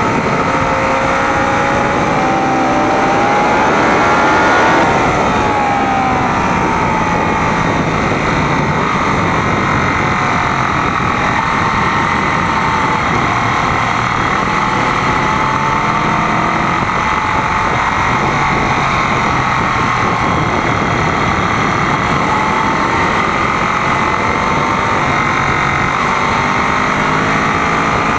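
Sport motorcycle engine heard from a camera mounted on its fairing, its pitch rising and falling with the throttle, loudest about five seconds in, under heavy wind rush on the microphone.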